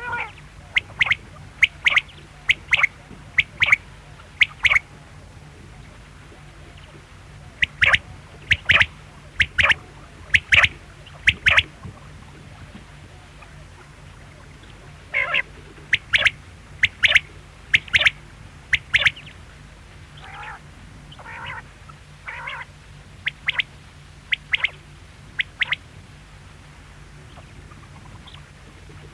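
Quail calling: short, sharp notes repeated in runs of about half a dozen, with pauses of a few seconds between the runs. A steady low hum runs underneath.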